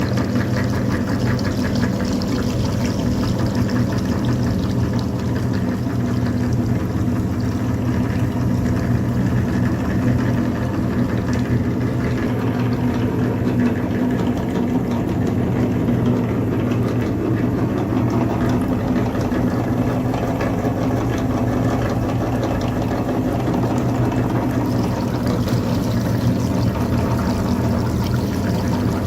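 Mini tractor's motor running steadily at an even pitch, with no revving or stops.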